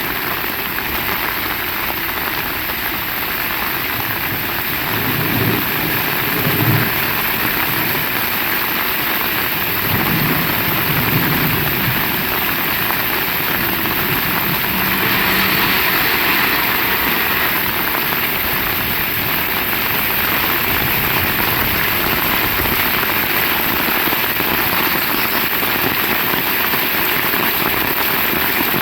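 Heavy rain falling steadily, a dense even hiss, with a few low rumbles a few seconds in and again around ten seconds, and a brief heavier patch about midway.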